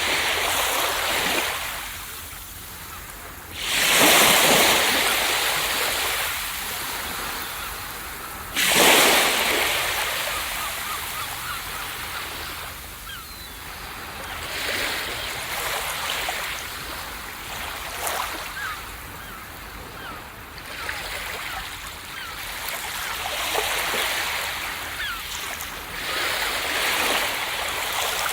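Ocean waves breaking on a beach: two loud crashes about four and nine seconds in, each fading into the hiss and fizz of surf washing up the sand, then smaller waves rolling in and out.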